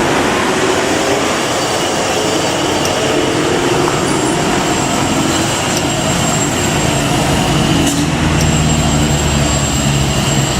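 A heavy truck engine running steadily, with a low engine hum that grows stronger in the second half.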